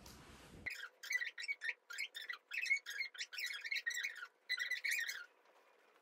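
Small bird twittering in quick runs of high chirps, starting about a second in and stopping a little before the end.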